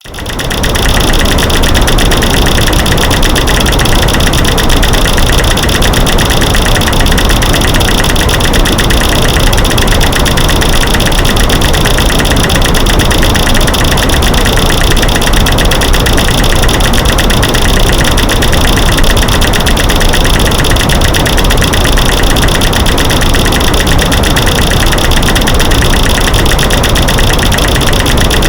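A loud masking track of rapid, overlapping clicks and knocks (light switches clicking, sticks breaking and rocks banging) mixed over a white-noise bed. It fades in over the first second, then runs on as an even, unbroken rattle.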